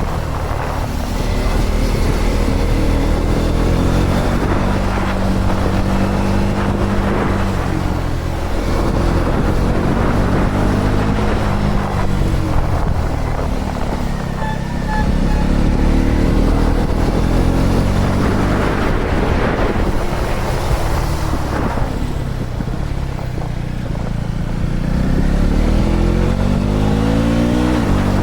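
KTM Duke 250 Gen3's single-cylinder engine running under way, its revs climbing and dropping again several times with throttle and gear changes, with wind rushing past.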